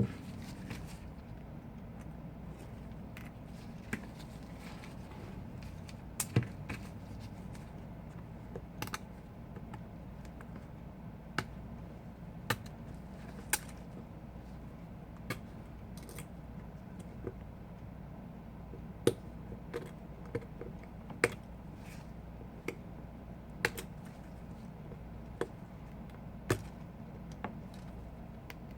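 Light, irregular clicks and taps of small hand tools and tiny parts against an iPhone 5 and the work surface during disassembly, over a steady low hum.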